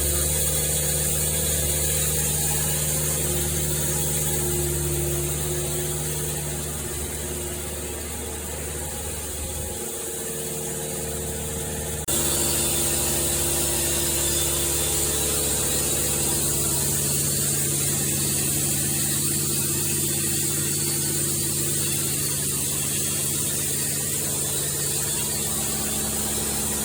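Sawmill machinery running: a steady engine hum with a high hiss over it. The sound sags a little partway through and comes back abruptly about twelve seconds in.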